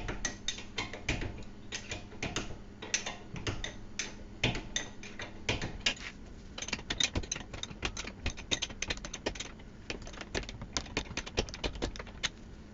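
Ratcheting wrench clicking in quick runs of metallic clicks while backing out the rear brake caliper bracket bolts, fastest a little past the middle.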